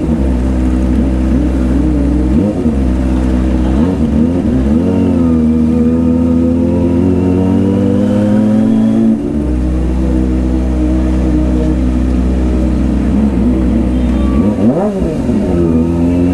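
Kawasaki ZX-25R's 250 cc inline-four engine under way, its revs rising and falling with throttle and gear changes. There are quick up-and-down rev sweeps a few seconds in and again near the end, and a slow steady climb in pitch in between.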